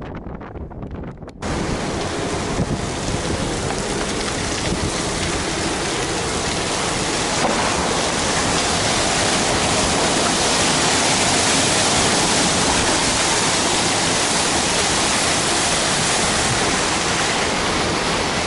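Steady, loud rushing of wind and sea on a cruise ship's open deck, starting abruptly about a second and a half in.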